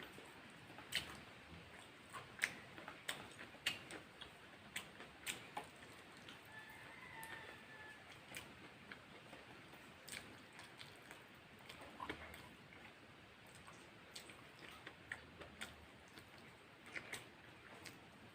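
Close-miked eating sounds: soft, irregular clicks and smacks of chewing and mouth movement, quite quiet, busiest in the first few seconds.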